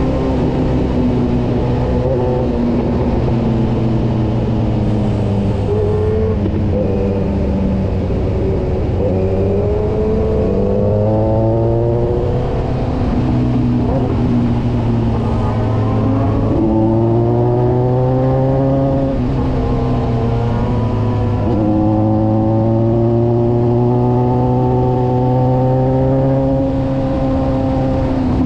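Kawasaki Versys 1000 inline-four engine under way, heard from the bike itself. Its pitch climbs under throttle several times and drops back between, as the rider accelerates and eases off or shifts through the bends, over a steady rush of wind.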